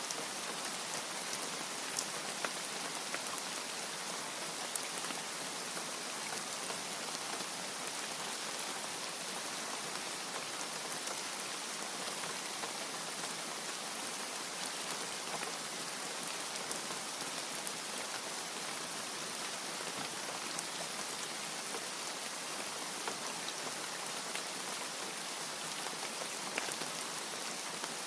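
Steady, even rain, with a few individual drops ticking out now and then.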